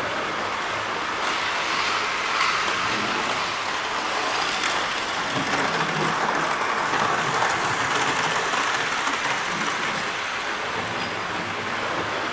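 OO gauge model train running on the layout: a steady rolling and whirring of metal wheels on track and the locomotive's small motor.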